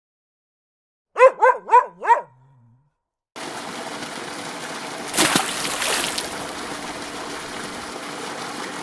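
A dog barking four times in quick succession. After a short silence, a steady rush of running water starts abruptly, with a louder splash about five seconds in.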